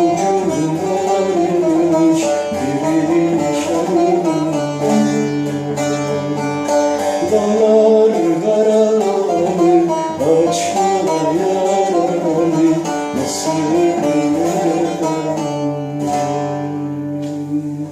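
Instrumental passage of a Turkish folk song: plucked string instruments play a moving melody over held low notes, with the music ending right at the close.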